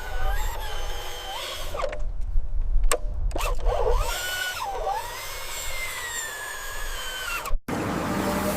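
Small electric motors of a radio-controlled construction model whining, their pitch rising and falling as the machine works, with a few clicks in the middle. A sudden cut near the end leads into a different steady machine sound.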